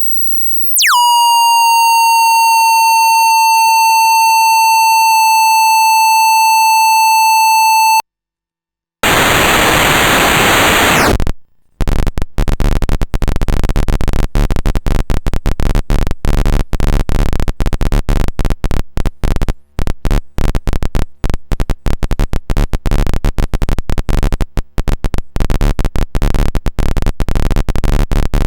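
Eurorack noise module built on square-wave oscillators, a Jupiter Storm-style 'cosmic noise' unit, playing on its own. After a brief silence a steady high tone swoops down in pitch and holds for about seven seconds before cutting off; after a short gap comes a two-second burst of hiss, then a dense, rapidly stuttering, chopped noise texture.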